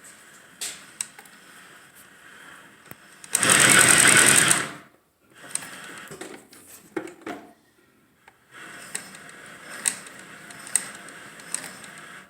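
Leather patch sewing machine stitching in a loud, fast burst of about a second and a half a few seconds in, with quieter running and scattered clicks before and after.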